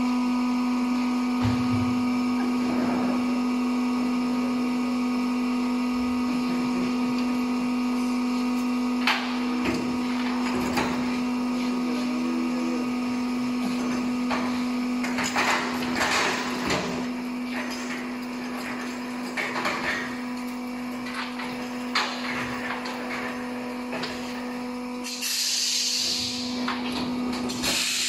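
Workshop machinery in a tyre retreading plant running with a steady hum, with intermittent knocks and clatter of work on it, and a loud burst of hissing near the end.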